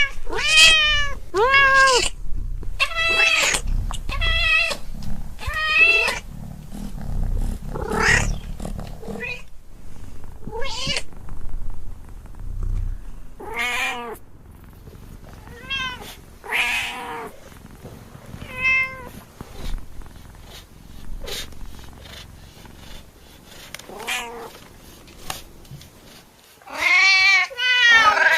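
Cat meowing over and over in short, arching calls. The calls come about every second at first, thin out in the middle, and bunch into a quick run near the end.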